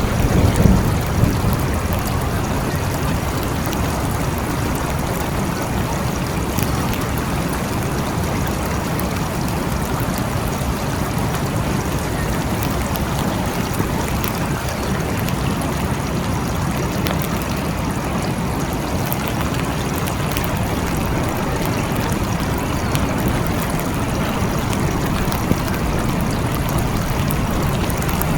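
Steady rain falling, with a low rumble of thunder underneath that swells briefly about a second in.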